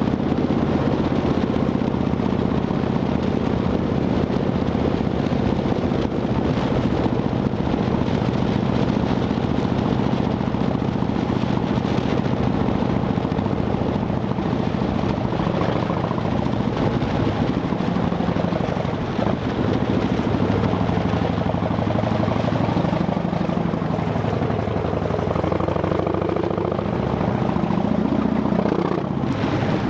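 Harley-Davidson Dyna Fat Bob's V-twin running through Vance & Hines Shortshots exhaust with quiet baffles, a steady beat at first, then engine speed rising and falling repeatedly through the second half.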